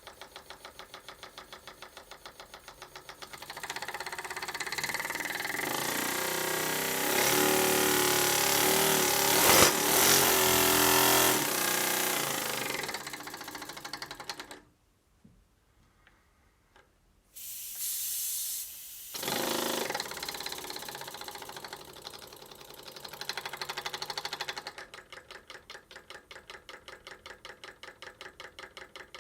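Small model single-acting oscillating engine running on compressed air, puffing out air in an even beat of about four a second. About four seconds in it speeds up to a louder, fast run, then slows and stops for about three seconds. It starts again, runs fast briefly, and settles back to the slow, even beat near the end.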